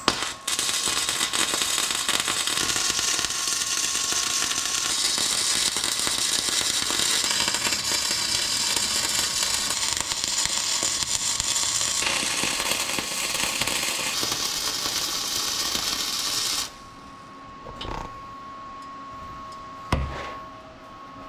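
Welding arc crackling and sizzling in one continuous bead for about sixteen seconds while welding the turbo's hot-side exhaust pipe flanges, then the arc cuts off suddenly, leaving a faint steady hum and a couple of light knocks.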